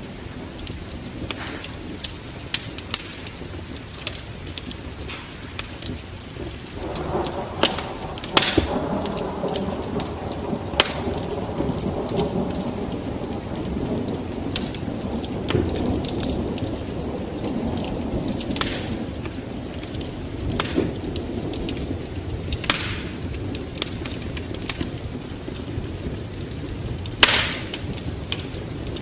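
Wood fire crackling, with frequent sharp pops and snaps. A low rumble swells in from about seven seconds in and fades out again about twenty seconds in.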